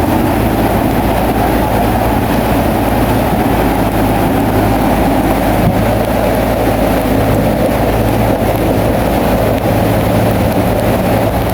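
A bulldozer's diesel engine runs steadily, a low hum under a dense rumbling noise.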